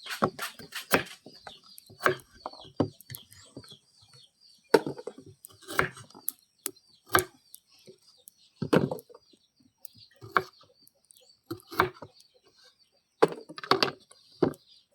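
Irregular knocks on wood, like chopping, some coming in quick pairs. Small birds chirp rapidly and high through the first half.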